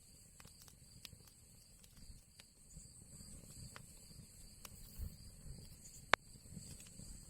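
Wood fire crackling in an old chimney fireplace: scattered small pops and clicks over a low rumble of the flames, with one loud sharp pop about six seconds in.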